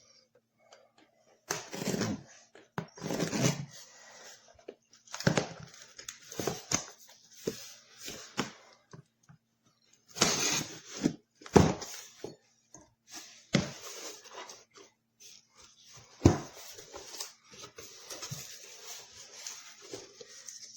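Irregular clicks, knocks and rustling of things being handled, in short uneven bursts.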